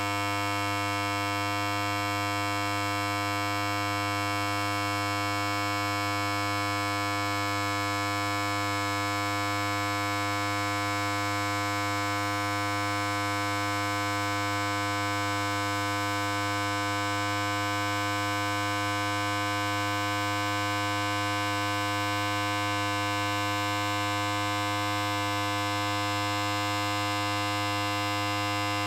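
Electric hair clipper running continuously, a steady, unchanging buzz with a deep hum underneath.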